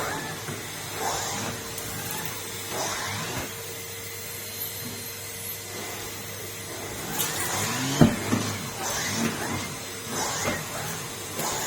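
Numatic Henry vacuum cleaner running with a steady hum and a constant tone, its sound rising and falling repeatedly as it works. A sharp knock comes about eight seconds in.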